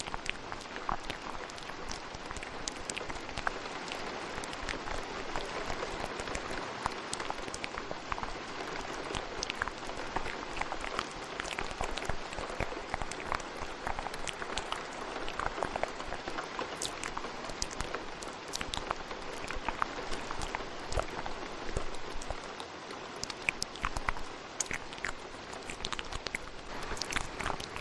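Steady rain with many small, irregular wet clicks and smacks of ASMR mouth sounds layered over it.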